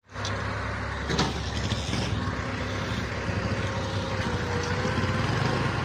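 Tractor's diesel engine running steadily under load, with a single clank about a second in.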